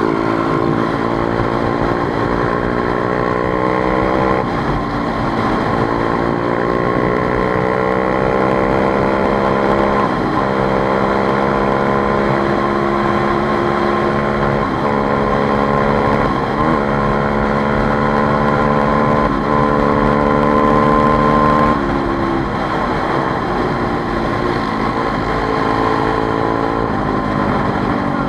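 Motorcycle engine running while riding, its pitch climbing steadily and then dropping sharply several times as the revs build and fall back.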